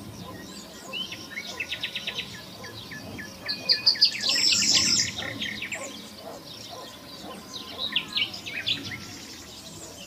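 Songbirds chirping and calling: a quick trill of repeated notes about a second in, a louder burst of high chirps in the middle, and a few more calls near the end.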